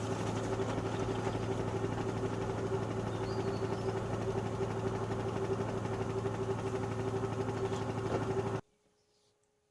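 Panasonic NA-147VB2 inverter washing machine running steadily, a constant motor whine over a low hum, which stops suddenly near the end.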